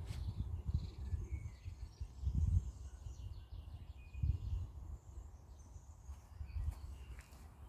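Outdoor ambience: an uneven low rumble, like wind buffeting the microphone, loudest about two and a half seconds in and again a little past four seconds, with faint bird chirps and insect calls above it.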